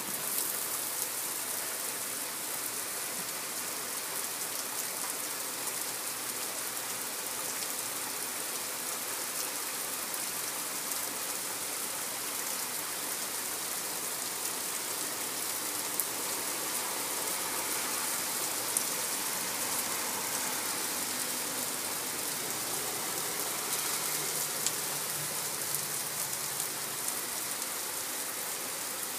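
Heavy rain pouring down on pavement and a flooded street: a steady hiss with scattered sharp ticks of drops striking close by.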